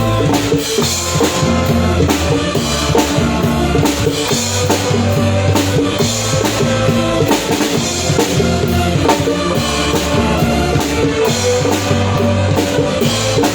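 A live band playing with a full drum kit: steady bass drum, snare and cymbals under bass and pitched instruments.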